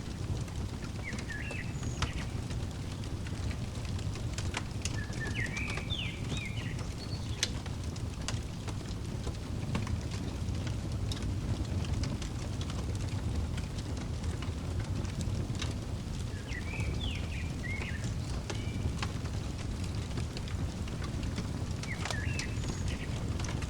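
Wood fire crackling with scattered sharp pops over a steady low rumble. A bird chirps in four short bursts of quick rising and falling notes, about a second in, around five to seven seconds in, around seventeen seconds in and near the end.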